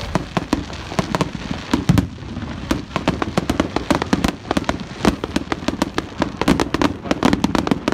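Aerial fireworks display: shell after shell bursting in a rapid, unbroken barrage of bangs and sharp cracks, many a second, with no let-up.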